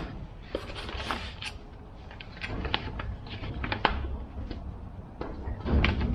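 Papers being rifled through by hand: a string of irregular rustles and light clicks over a low steady background rumble.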